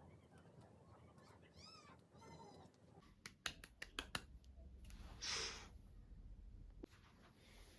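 A cat meowing twice, short calls that rise and fall in pitch, followed by a few light clicks and a brief swish.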